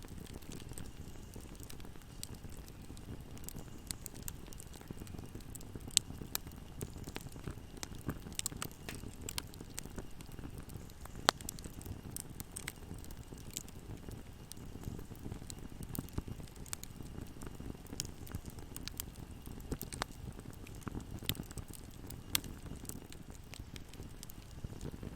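Wood fire burning in a fireplace: a steady low rumble of flames with frequent sharp crackles and pops, a few of them much louder than the rest.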